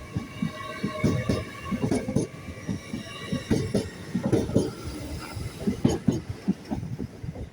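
TransPennine Express Class 802 train moving through the station, its wheels knocking in a rapid, irregular clatter over rail joints and points. A steady high squeal from the wheels fades out about two seconds in.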